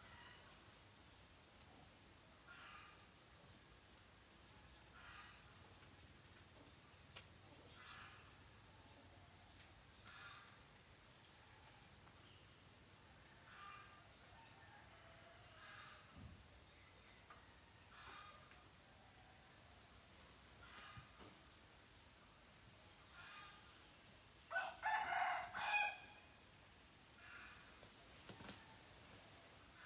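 Morning countryside ambience: insects chirping in repeated bouts of quick pulses, about six a second, over a steady high insect drone. Short bird calls are scattered through it, and a rooster crows once about 25 seconds in.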